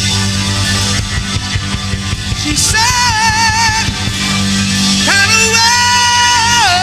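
Live rock band playing an instrumental stretch, with steady low sustained chords underneath. A high lead note wavers with vibrato about three seconds in, and a longer note slides up about five seconds in and is held before dropping near the end.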